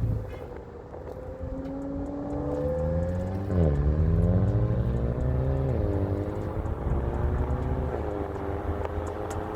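Car engine accelerating through the gears: its pitch climbs, drops sharply at a shift about three and a half seconds in and again about six seconds in, and climbs again after each. It gets louder after the first shift.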